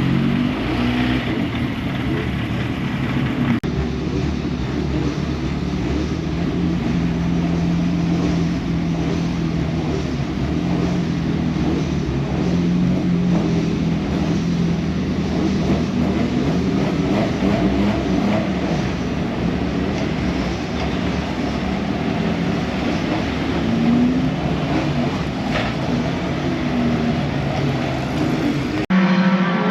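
Racing pickup truck engines running, a steady drone with small rises and falls in pitch, broken by abrupt cuts about four seconds in and near the end.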